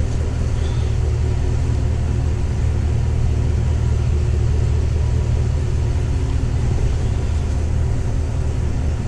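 2025 Chevrolet Tahoe High Country's 6.2-litre V8 idling steadily, a deep, even engine sound with no change in pitch.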